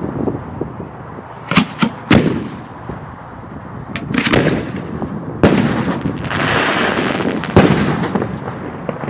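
Aerial fireworks shells bursting: three sharp bangs in quick succession about a second and a half in, more near four and five and a half seconds, and another near seven and a half seconds. A hiss fills the gaps between the bangs.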